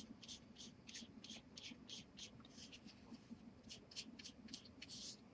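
Oil pastel scratching across watercolor paper in short, quick strokes, about two or three a second.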